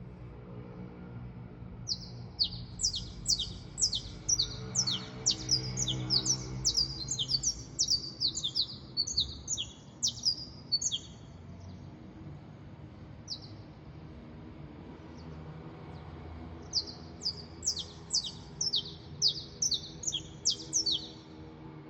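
A songbird singing two long bouts of rapid, high, sharply down-slurred notes, several a second, with a pause between them. A faint steady low hum runs underneath.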